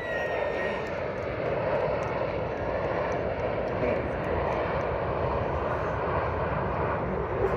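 Airplane engine running steadily overhead, with a high whine that fades out in the first second.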